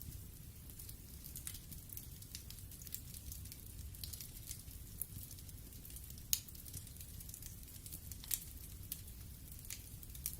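Wood fire burning in a fireplace: a low steady rumble of the flames with scattered sharp crackles and pops of the burning wood, the loudest pop a little past six seconds in and another near eight seconds.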